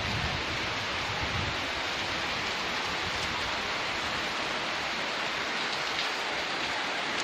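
Heavy rain falling as a steady, even hiss of drops. A low rumble fades out in the first second or two.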